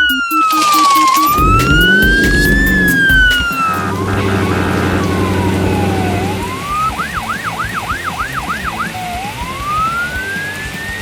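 Police car siren sound effect: a slow wail rising and falling, then about two thirds of the way in a fast yelp of quick up-sweeps, and one more slow rising wail near the end. A low steady hum sits underneath in the first half.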